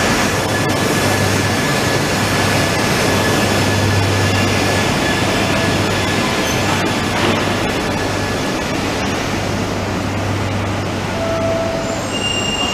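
Genbi Shinkansen, an E3-series shinkansen train, rolling slowly along the platform with a steady loud rumble of wheels and running gear. A thin high whine runs over it and fades out about halfway through.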